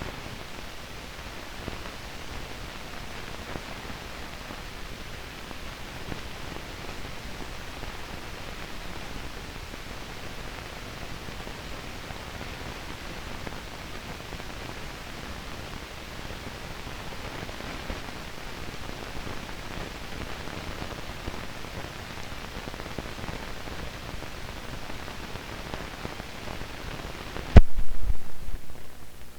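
Steady hiss and crackle of an old newsreel soundtrack carrying no programme sound. Near the end comes one loud pop that dies away over about two seconds, and after it the hiss is lower.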